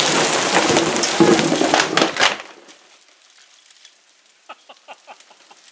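Heavy rain mixed with hailstones pelting a surface, a dense hiss full of sharp ticks, which cuts off abruptly about two and a half seconds in. A short run of faint light ticks follows near the end.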